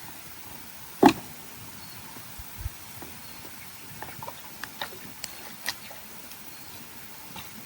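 One sharp knock about a second in, then scattered light taps and clicks over a steady background hiss.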